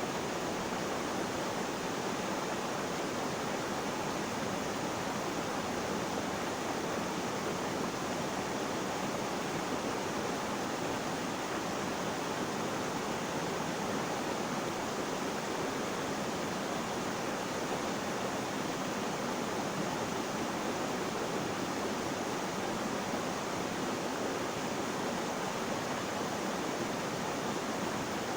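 Flowing water rushing steadily, an even hiss with no splashes, breaks or changes.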